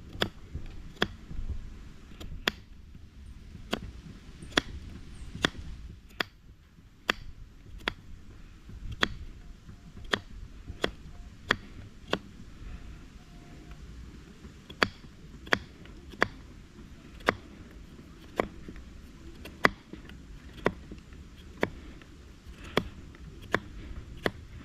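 Sharp clicks or taps repeating irregularly, about one to two a second, over a faint low rumble.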